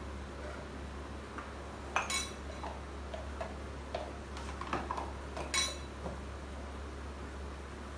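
Kitchen utensils clinking and tapping: a few scattered light clicks, with two sharper ringing clinks about two seconds in and near the middle, over a steady low hum.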